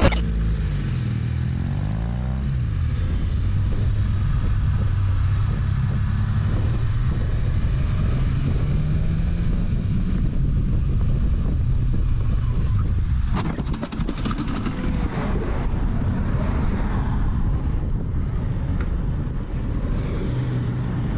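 Motorcycle engine running as the bike rides along, with road and wind noise. Its pitch shifts up and down with the throttle in the first couple of seconds, then holds fairly steady. A single short, sharp click comes about two-thirds of the way in.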